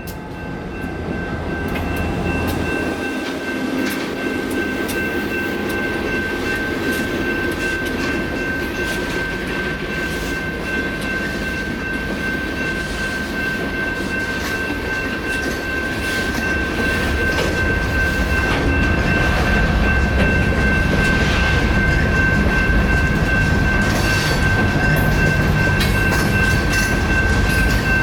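A train rolls through a railroad crossing with a low rumble and clicking wheels; the rumble swells louder about halfway through. Over it, the crossing's electronic bells ring with a steady, high ringing tone.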